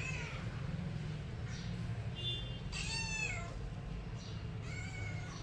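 Domestic cat meowing several times, with the loudest call about three seconds in.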